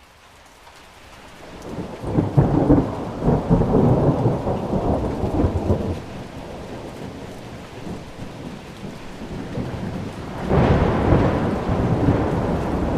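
Thunderstorm: steady rain with two rolls of thunder. The first rumble builds over the first couple of seconds and rolls on for several seconds. The second breaks in sharply near the end.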